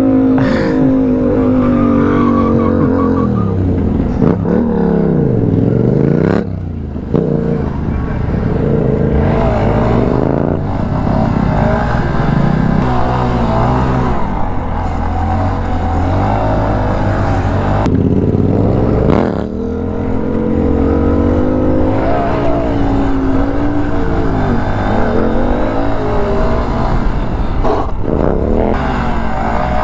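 Car engines on a track revving up and down hard, their pitch climbing and dropping again every few seconds, with two brief lulls, about six and nineteen seconds in.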